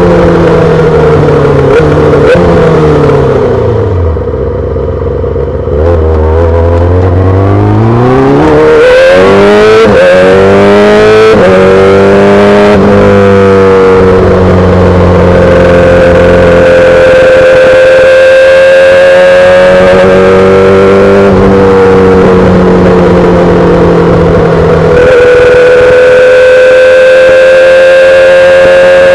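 2008 Yamaha R6's inline-four through a full SC-Project exhaust. Revs fall to a low, quieter run about four seconds in, climb again in rising pitch through several gear changes, then hold steady at a cruise for the second half, easing briefly near the end.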